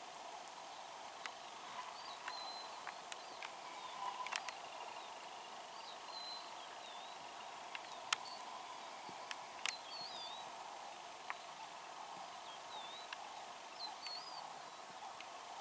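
Outdoor ambience: a bird repeats a short warbling whistle every couple of seconds over a steady hum, with a few sharp clicks scattered through it.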